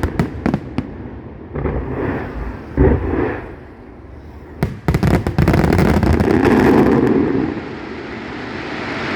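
Fireworks display: a run of crackling pops, separate booming bursts, then sharp cracks leading into a dense, loud barrage that eases into a steadier, quieter rumble near the end.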